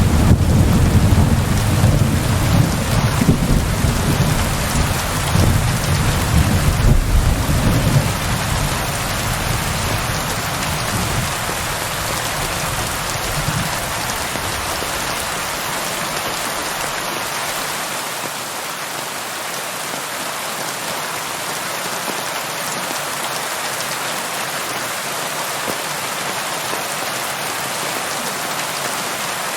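Steady rain falling. A low roll of thunder runs through the first several seconds and fades away, leaving only the even hiss of the rain.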